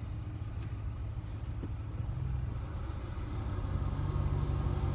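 Ram pickup truck's engine running at low speed, heard from inside the cab: a steady low rumble that grows a little louder near the end.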